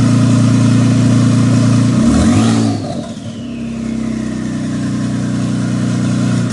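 Kia Stinger GT's twin-turbo V6 with catless downpipes, cold-started and running at a loud, steady idle. About two seconds in it gives a short rev, followed by a whine that falls slowly in pitch as the engine settles back.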